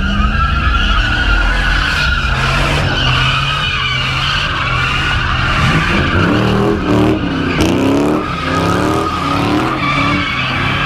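A car drifting: tires squealing steadily over a hard-revving engine, with the engine pitch climbing in several repeated revs past the middle.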